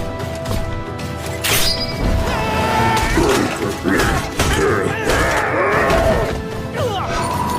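Action cartoon fight soundtrack: music under a series of hits and crashes, with a sharp impact about a second and a half in and more near the middle.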